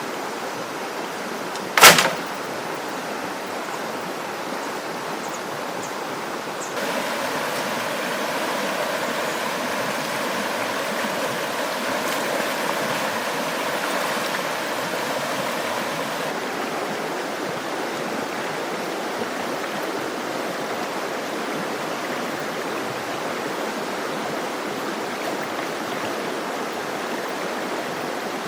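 Steady rush of running water, with one sharp, loud knock about two seconds in.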